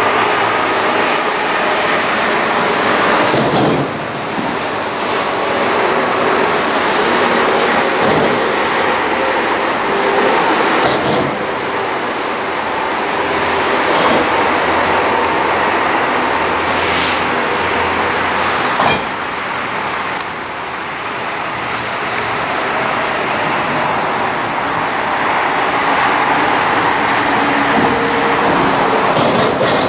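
Diesel-hauled passenger train running along the line, its locomotive engine and rolling wheels making a steady noise.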